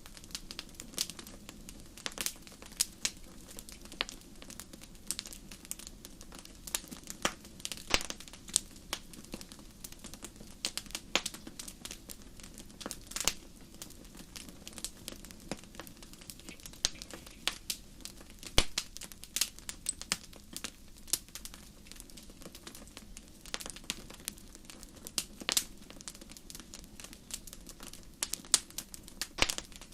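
Campfire crackling: irregular sharp pops and snaps, a few louder than the rest, over a soft steady rush of burning.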